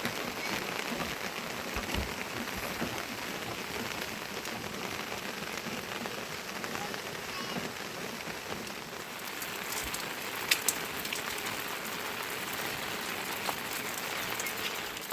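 Steady rain falling, with scattered small drip clicks and two short sharp taps about ten and a half seconds in.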